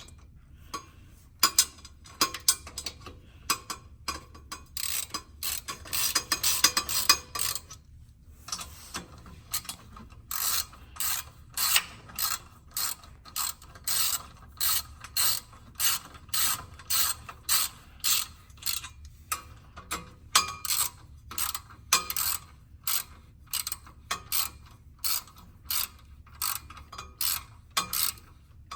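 Hand ratchet wrench clicking as nuts on the exhaust front pipe are run on: a dense stretch of clicking about five to eight seconds in, then short even bursts of clicks at about two strokes a second.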